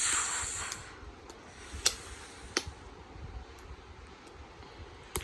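Wood bonfire crackling: a few sharp pops, the loudest about two seconds in and another near the end, over a faint steady hiss, after a brief rush of noise at the start.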